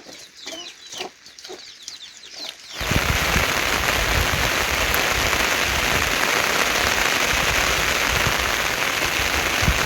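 Chickens clucking faintly for the first few seconds, then a loud, steady downpour of rain starts abruptly, about three seconds in.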